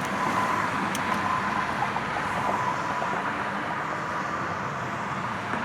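Road traffic noise: a steady rush of car tyres and engine from passing traffic that eases off slowly, with a faint high tone in the first couple of seconds.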